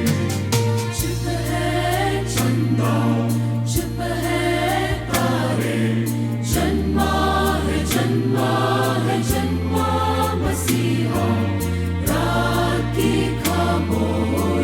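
Church choir singing a Christmas carol with instrumental accompaniment: a bass line that changes note every second or two under a steady beat of percussion.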